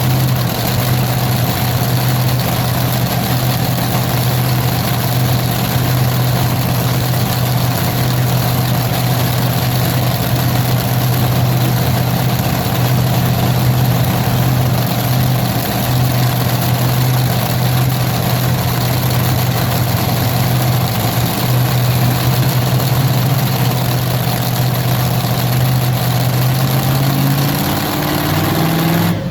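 Large engine running at a steady speed with a strong low hum, its pitch rising over the last couple of seconds as it revs up.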